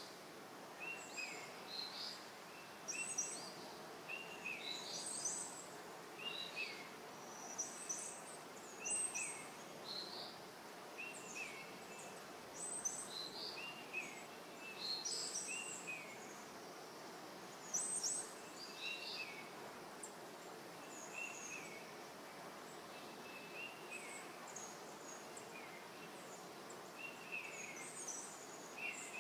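Small birds chirping over and over, short high notes recurring every second or two, over a steady low background of outdoor noise.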